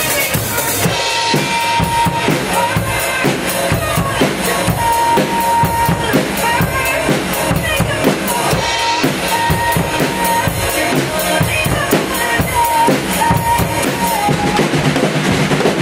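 Drum kit played along with a pop backing track: steady kick and snare beats under busy cymbal strokes, with the song's melody running over the top. The cymbal playing thickens about a second in.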